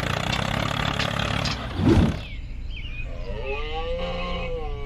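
Steady mechanical running noise, a sharp thump about two seconds in, then one long roar-like cry that rises and falls in pitch.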